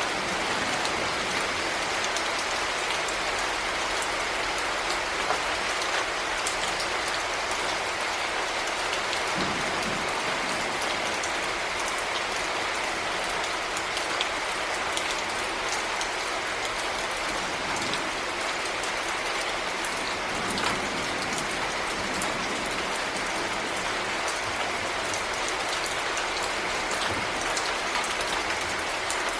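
Heavy rain falling steadily: a dense, even hiss with scattered sharp drop ticks on a surface.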